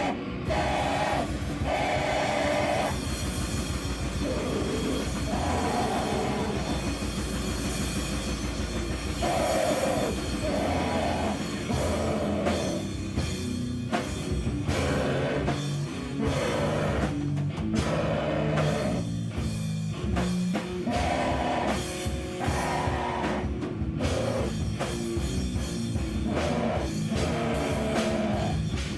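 Loud live rock band playing a heavy, noisy song, with pounding drums and guitar.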